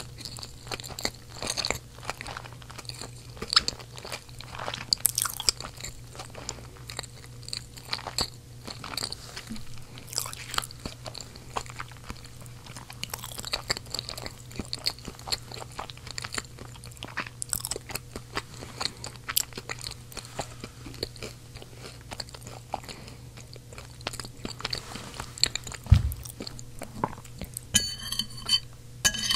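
Close-miked chewing of seasoned potatoes: many short wet mouth clicks and smacks over a steady low hum. A dull thump comes a few seconds before the end, then a metal fork clinks and scrapes on the ceramic plate near the end.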